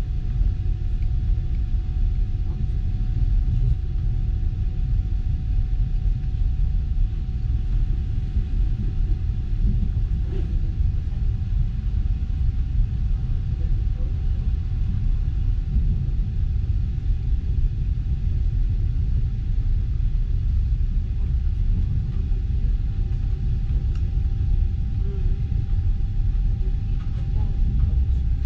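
Passenger railway coach in motion, heard from inside: a steady low rumble of the wheels running on the track, with a faint steady whine over it.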